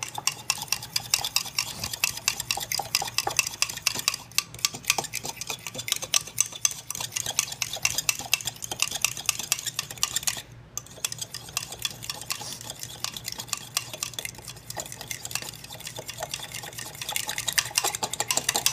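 A metal fork stirring and scraping against the inside of a ceramic mug, a rapid run of clinks that pauses briefly about halfway through. The fork is mixing melted butter, an egg yolk, sugar and vanilla into a batter.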